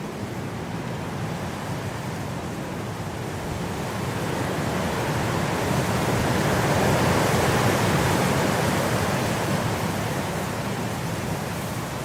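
Blizzard wind blowing as a steady rushing noise, building to a strong gust about halfway through and then easing off.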